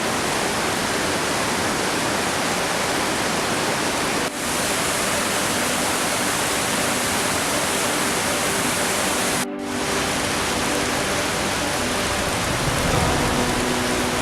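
Peričnik waterfall: a heavy, steady rush of falling water, broken by two short dips, about four and nine and a half seconds in.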